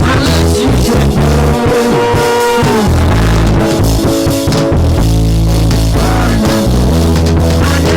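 Band music with drum kit, bass and guitar playing a steady beat.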